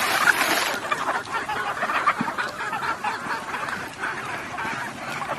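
A flock of free-range chickens clucking and calling over one another in many short, overlapping calls. A loud rushing noise dies away in the first second.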